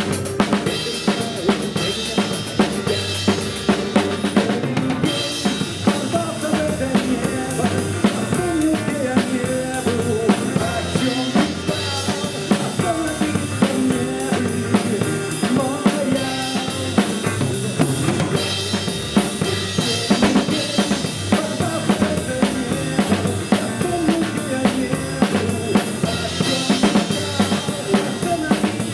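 Drum kit played along to a recorded rock song: a steady beat of bass drum, snare and cymbals over the track's melody.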